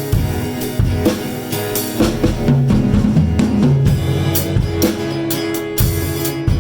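Live instrumental jam of drum kit, electric guitar and keyboards: sustained guitar and keyboard notes over a steady drum beat with bass drum and cymbal hits.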